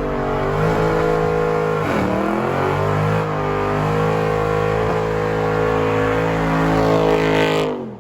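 Car engine revved hard and held at high rpm, dipping briefly about two seconds in before climbing back, then dropping off abruptly near the end.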